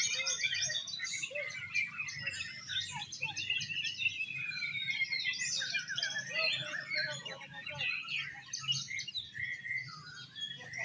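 Caged oriental magpie-robins (kacer) singing in competition, a dense stream of rapid, varied whistles and chirps that overlap with no pause.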